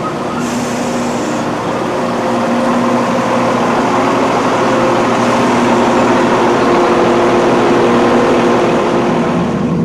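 Diesel train engine running at a steady pitch, growing slowly louder over several seconds. A short hiss comes about half a second in.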